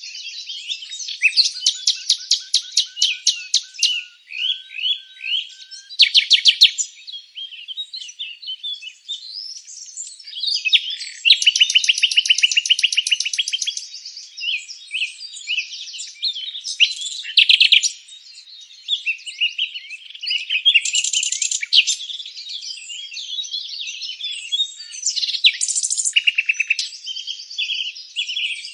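Songbirds chirping and singing together, several at once, with fast trills of rapidly repeated notes among the shorter chirps.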